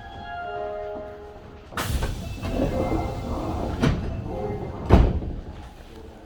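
Door-closing chime melody fading out on an Osaka Metro 66 series train, then the sliding passenger doors closing with a thud about two seconds in. Further knocks follow, the loudest near the end.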